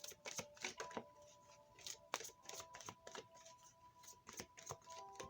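Tarot cards being shuffled and handled, an irregular run of soft clicks and slaps several times a second, over faint background music with held tones.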